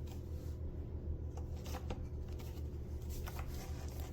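Plastic parts of a Eureka WhirlWind canister vacuum being handled and pushed together: scattered light rattles and scrapes over a steady low hum.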